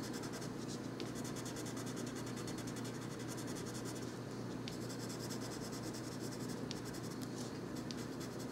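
Coloured pencil scratching on paper in quick, repeated short strokes, pausing briefly a couple of times, over a steady low hum.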